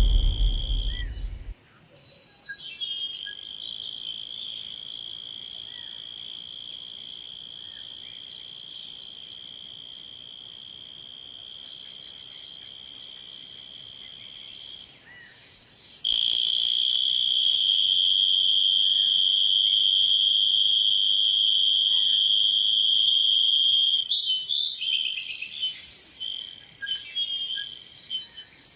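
Male cicada calling with its tymbals: a steady, high buzzing tone that holds for about twelve seconds, breaks off for a moment, then comes back louder for about eight seconds before stuttering into short broken pulses near the end. A deep rumble dies away in the first second or so.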